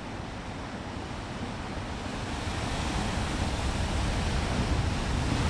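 Strong wind rushing and buffeting the microphone, growing steadily louder.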